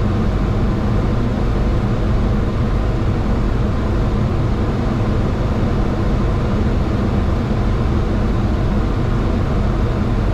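Steady cockpit noise in a Boeing 737-800 on approach: airflow and engine drone, a constant low rumble with a faint hum in it.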